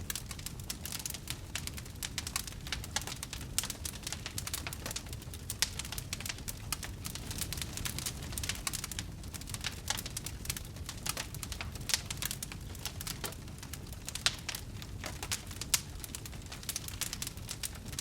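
Wood fire crackling steadily in a fireplace, a dense patter of small snaps with a few louder pops, over a low steady rumble of the burning.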